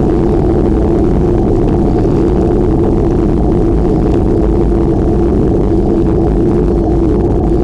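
Steady, loud rumble and rush of wind and road noise on a microphone riding along on a moving bike, with a constant low hum underneath.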